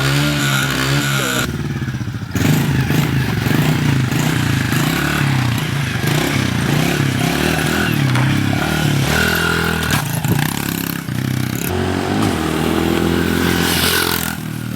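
Moped's small engine running loud and being revved, its pitch rising and falling repeatedly.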